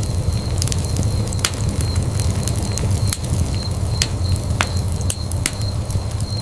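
Wood fire in a fireplace crackling, with sharp irregular pops and snaps several times a second over a steady low rumble of the flames.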